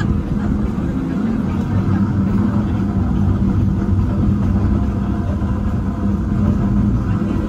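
Narrow-gauge train rolling along its track, a steady low rumble from the moving cars.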